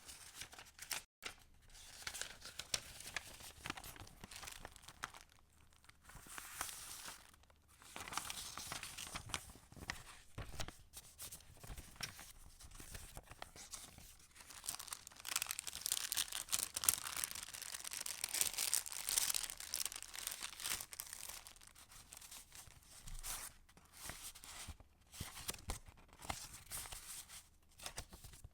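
Paper pages and tucked-in paper pieces of a handmade junk journal rustling and crinkling as they are handled and turned, busiest and loudest in the middle, with short pauses between handlings.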